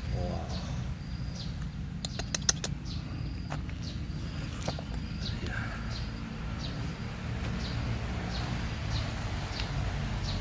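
A bird chirping over and over, short high falling notes about once or twice a second, over a steady low rumble. A few sharp clicks about two seconds in are the loudest moment.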